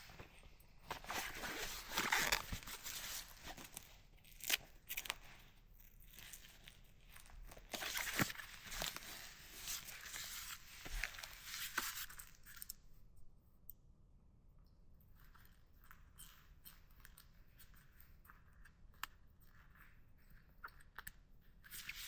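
Irregular rustling and crunching handling noise with sharp clicks, busiest in the first half, then thinning to scattered light clicks about halfway through.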